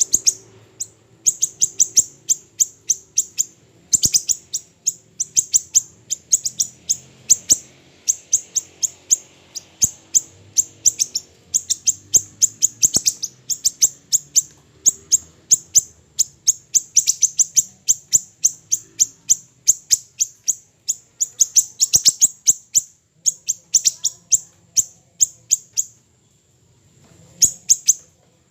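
Siri-siri kecil, a small songbird, calling in fast runs of short, sharp, very high-pitched chips, several a second, with a brief pause near the end.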